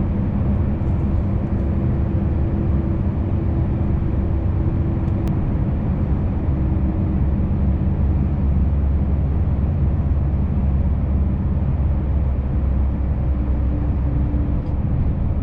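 Scania V8 truck engine and road noise heard from inside the cab while driving at a steady speed: an even, low drone with no change in pitch.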